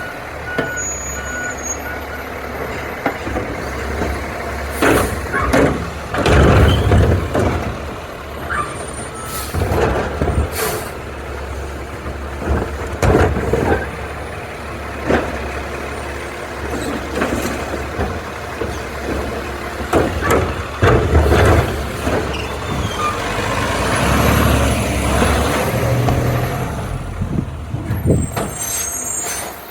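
Garbage truck's diesel engine running, with air-brake hisses and a series of metal clanks and bangs scattered through it.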